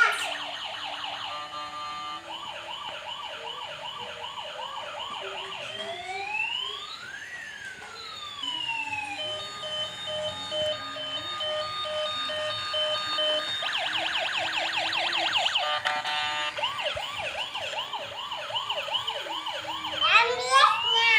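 Ambulance's electronic siren cycling through several patterns: fast warbling yelps, a slow rising and falling wail, and a steady two-tone pulse, switching every few seconds.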